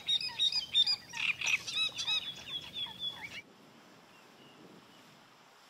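A busy chorus of rapid, repeated chirping animal calls, which cuts off abruptly a little over halfway through and leaves only a faint steady hiss.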